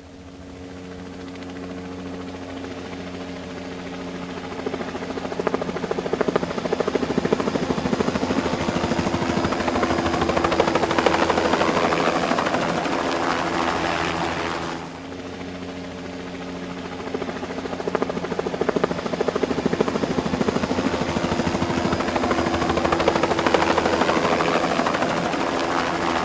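Helicopter in flight: a fast, steady beat of the rotor blades over the engine's tones, growing louder. It drops off suddenly about 15 seconds in and builds up again.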